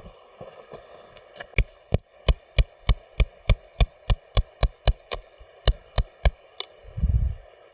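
A quick run of sharp knocks, about three a second for around five seconds, ending in a short low thud.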